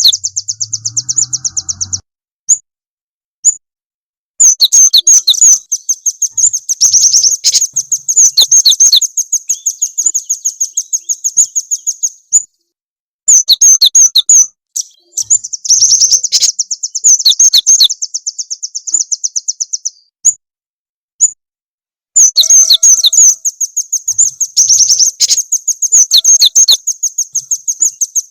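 A small songbird's song lure: long, rapid trills of high chirped notes, delivered in phrases of several seconds with brief pauses between them.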